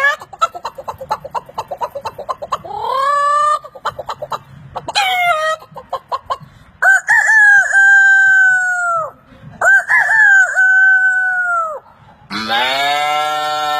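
A man imitating a chicken with his voice: rapid clucking, then two long rooster crows. Near the end he starts a lower, wavering, bleat-like call.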